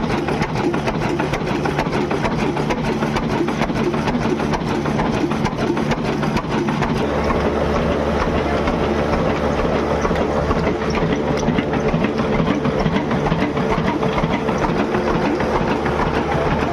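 An engine running steadily with a fast, even beat. About seven seconds in its tone shifts and a steadier low hum comes in.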